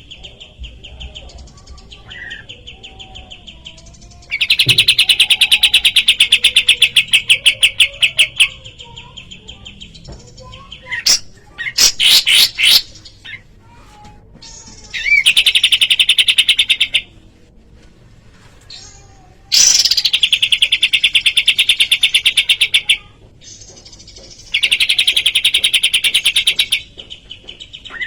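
Kapas tembak songbird singing: repeated rapid, rattling trills a few seconds long each, with a burst of loud sharp chirps about halfway through.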